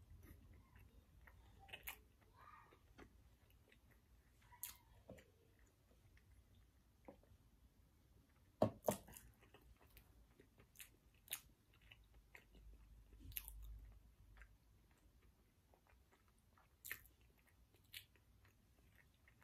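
Faint, close-miked chewing of food, with scattered soft mouth clicks; one sharper click about nine seconds in is the loudest sound.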